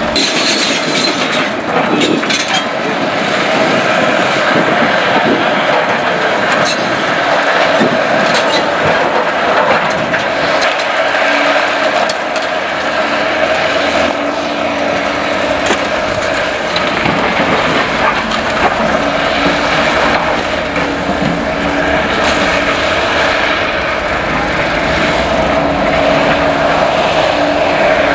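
Caterpillar excavators' diesel engines running steadily under load, with occasional sharp knocks and clatter from demolition work.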